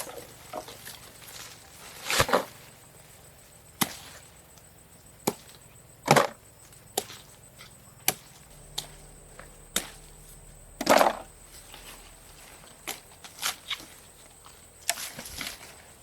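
Wood being chopped or struck by hand: about a dozen sharp, uneven strikes, some in quick pairs, the loudest near the middle.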